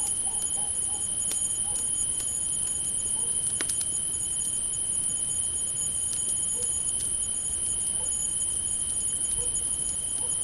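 Crickets chirping in a steady, high, unbroken chorus, with a second, lower cricket trill under it. A campfire crackles now and then in single sharp pops, the loudest about three and a half seconds in.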